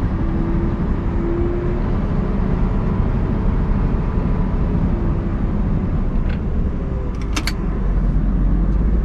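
Scania R580 truck's V8 diesel engine running steadily, with a few sharp clicks about seven seconds in and the low rumble growing near the end.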